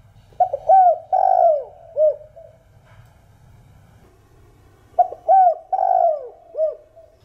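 Spotted dove (Streptopelia chinensis) giving its calling coo: two phrases of several short, arching coos each, about four seconds apart.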